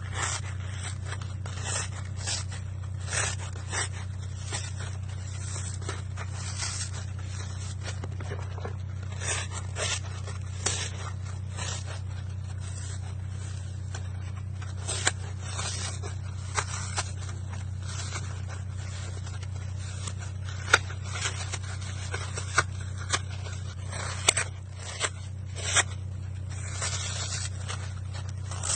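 Dry floral foam being crushed: a continuous run of crisp crunches and crackles, with a cluster of sharper, louder cracks in the last third, over a steady low hum.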